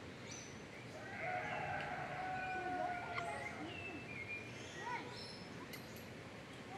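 Birds calling: a drawn-out call lasting about two seconds, then several short falling chirps and whistles.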